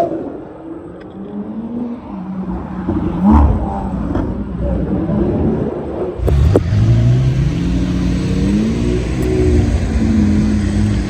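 Porsche Carrera GT's 5.7-litre V10 engine running and revving. About six seconds in there is a sharp crack, then the pitch rises as it accelerates before holding steadier.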